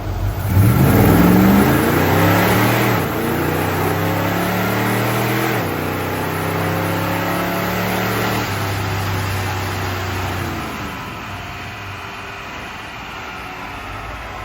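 Car engine accelerating hard: the revs climb sharply about half a second in, then the pitch drops in steps several times as it shifts up through the gears, and the sound fades toward the end.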